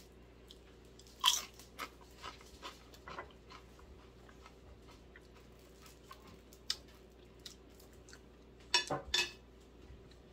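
A person biting into a crisp tortilla chip and chewing it: one loud crunch about a second in, then smaller crunches for a couple of seconds and faint chewing. A short vocal sound from the eater comes near the end.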